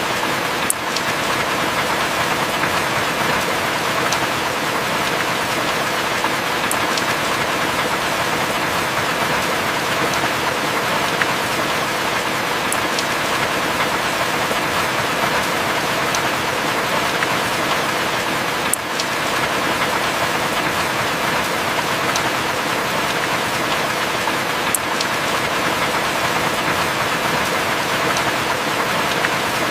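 Heavy rain falling steadily, with a few sharp drop clicks now and then.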